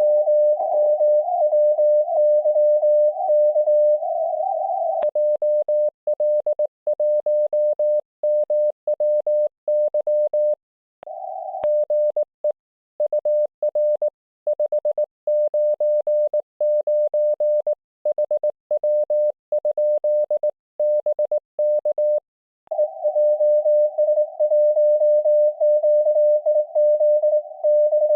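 Morse code (CW) from an IC-705 amateur radio transceiver on the 1.9 MHz band: a single tone near 600 Hz keyed into dots and dashes. For the first few seconds and again near the end it comes through a hiss of band noise. In the middle the keying is clean, with no hiss behind it.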